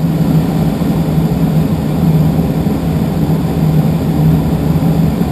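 Steady in-flight cockpit noise of a small aircraft: a constant low hum over rushing air.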